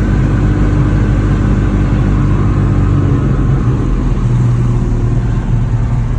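Old Ford F-Series truck's engine running as the truck is driven, a steady low drone whose pitch shifts a little about three seconds in.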